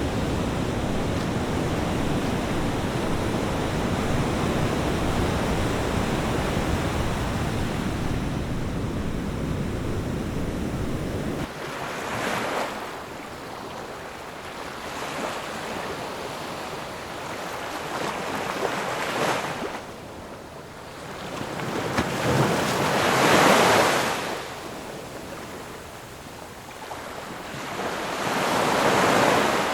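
Sea waves breaking on a shore. For the first third the surf is a steady deep rush, then it changes abruptly to single waves breaking and washing up every few seconds. The loudest waves come about two-thirds of the way in and near the end.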